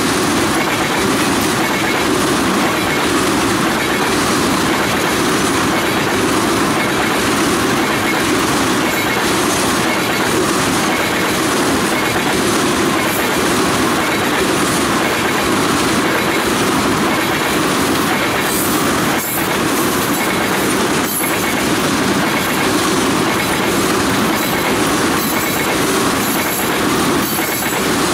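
Freight train of tank cars rolling steadily past close by: a continuous rumble and rush of steel wheels on rail, with a regular clicking of wheels over rail joints and a couple of sharper clacks near the end.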